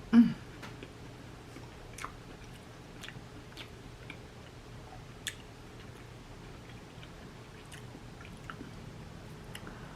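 Close-miked chewing and mouth smacks of a person eating a seafood boil, with scattered sharp wet clicks. A loud low thump at the very start is the loudest sound.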